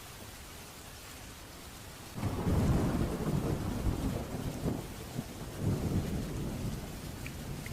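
Thunderstorm: steady rain hiss, then about two seconds in a thunderclap breaks suddenly and rolls on in several deep swells, slowly easing off.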